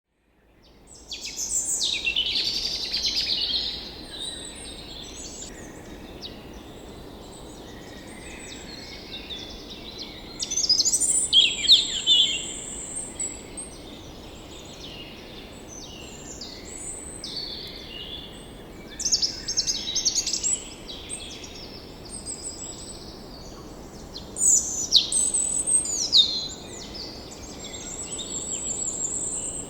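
Songbirds singing high chirps and trills in short spells every several seconds, over a steady low background rush.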